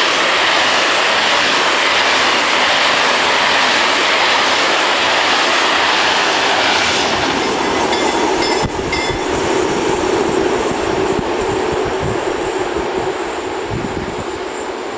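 Freight wagons loaded with timber rolling over the level crossing, with clickety-clack from the wheels, the rolling noise dropping away about seven seconds in as the last wagon clears. After that, the crossing's warning bells keep ringing, slowly fading.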